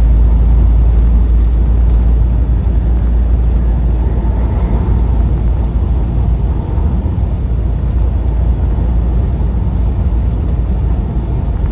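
Semi truck driving at road speed: a steady low rumble of engine and road noise.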